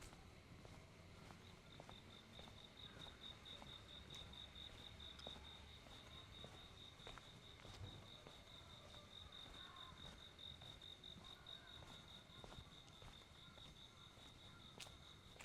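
A cricket chirping faintly and steadily, a fast even pulsing on one high pitch that begins about a second and a half in.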